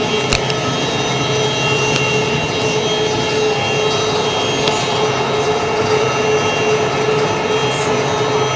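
Concrete floor-grinding machinery running steadily, a constant drone with a high hum, with a couple of sharp clicks just after the start.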